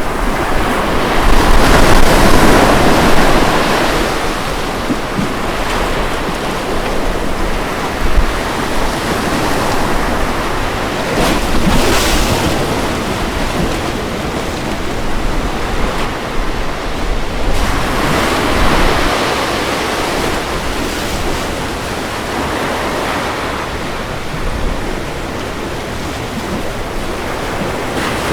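Ocean waves breaking on a beach: a steady surf hiss that swells and eases every few seconds, with the biggest wave about two seconds in, plus some wind noise on the microphone.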